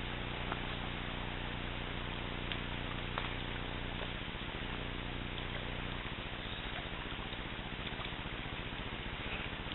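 Water of a small mountain stream running, a steady rushing hiss with a few faint ticks. A low steady hum underneath stops about six seconds in.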